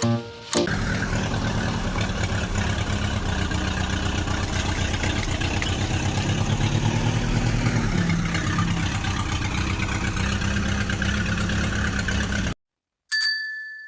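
Small tractor engine running steadily with a fast, even pulse, its pitch dipping slightly about halfway through before the sound cuts off abruptly. A short chime of music starts near the end.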